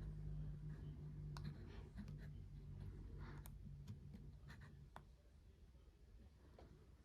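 Faint scratching and scattered sharp clicks from a small handheld object being worked on by hand, over a low steady hum that stops about five seconds in.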